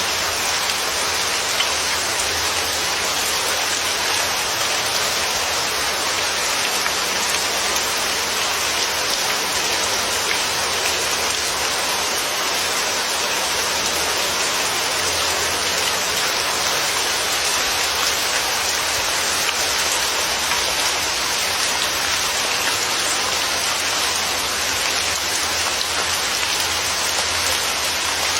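Steady, unbroken rain falling and pattering on a surface.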